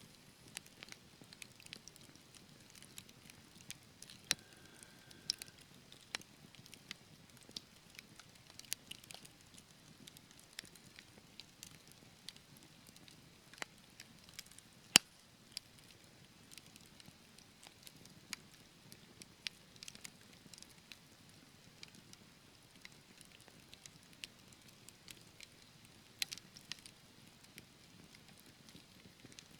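Wood fire crackling in a fireplace: a soft hiss of burning logs with irregular small pops and snaps, and one sharp, much louder pop about halfway through.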